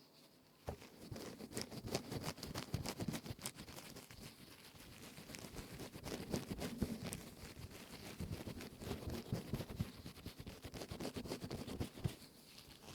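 Silicone scrubbing sponge rubbed and squeezed close to the microphone: a dense, crisp crackling rub full of small clicks, starting about a second in and stopping shortly before the end.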